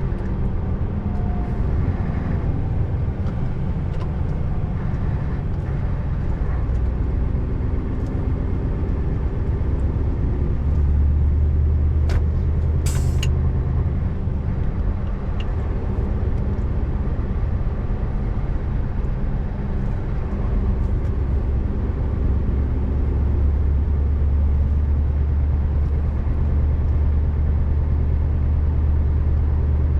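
Scania R590's 16-litre V8 diesel running under way, a steady low drone that grows heavier about 11 seconds in and again through the last third. A short hiss, a little before halfway.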